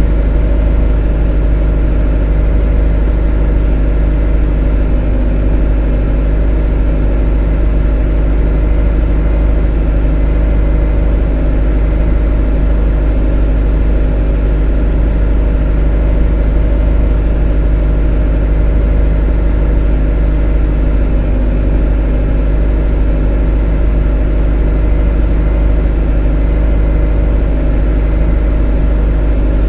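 A motor running steadily at constant speed: an even, unchanging drone with a strong deep hum and many steady overtones.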